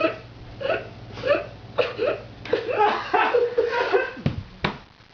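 A drunk man making laughing, hiccuping noises in short bursts about twice a second, then a longer run of giggling. Two sharp clicks come near the end.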